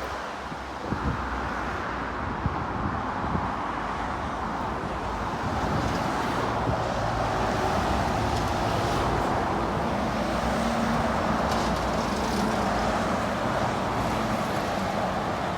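Road traffic passing, with a lorry approaching and going by: a steady rush of tyre and engine noise that swells about six seconds in and stays up.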